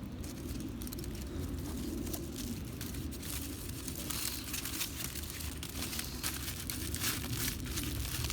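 Crinkling and rustling, with many small sharp crackles over a low rumble.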